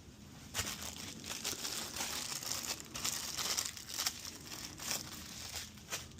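Crinkling and rustling of a crinkly material being handled, with many short crackles, starting about half a second in and stopping just before the end.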